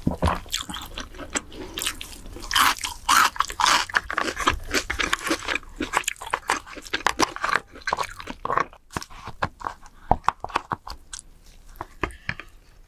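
A person eating king crab close to the microphone: crunching bites and chewing, with a dense run of crackling from about two and a half to five seconds in.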